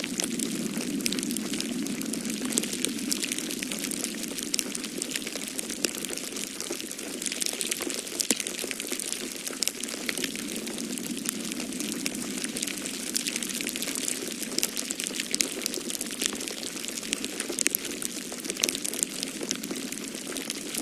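Wood fire crackling, with frequent sharp pops and snaps over a steady hiss, mixed with a low wind howl that swells and eases.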